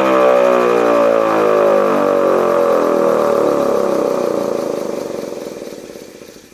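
Restored Federal Signal Model 2 electromechanical siren winding down, its tone falling steadily in pitch and fading out near the end.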